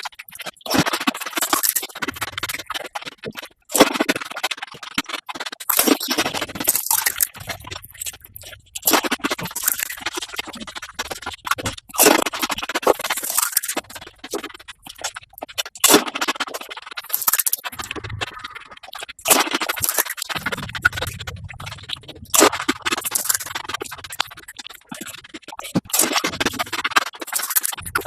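Golgappa (pani puri) being eaten at six times normal speed: crisp puri shells crunching and chewing run together into dense, rapid, high-pitched crackling in irregular bursts.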